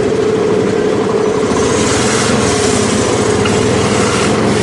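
A motor vehicle's engine running steadily, over a constant road-noise haze.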